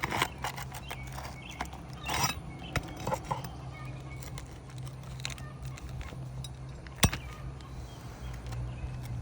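Hand tool working the last roofing nail out of a brittle three-tab shingle: scattered scrapes and taps, with one sharp click about seven seconds in, over a low steady hum.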